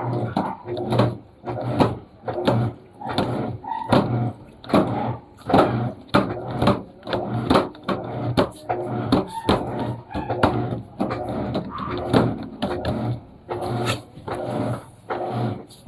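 Panasonic washing machine agitating a load: the motor drives the wash back and forth in quick strokes, churning water and laundry in a steady rhythm of about one and a half strokes a second, each with a low hum and a knock.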